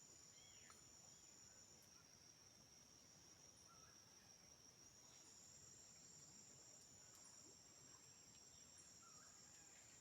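Faint rainforest insect chorus: a steady high-pitched drone of crickets or cicadas, with short chirps every second or two.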